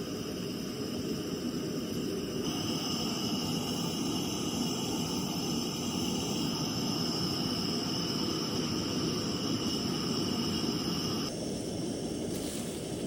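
A fan or blower running steadily: an even rushing noise with a thin high whine over it, shifting slightly a couple of seconds in and again near the end.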